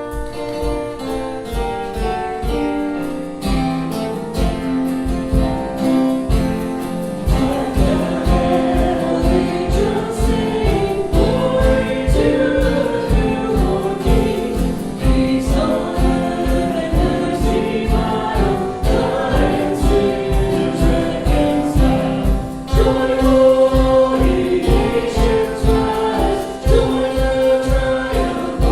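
Christian worship song: band music with a steady beat, and singing voices coming in about seven seconds in.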